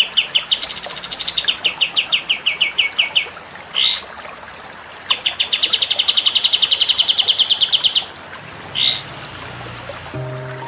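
Songbird singing fast runs of repeated chirping notes, about ten a second, broken twice by a single sharp upward-swept whistle.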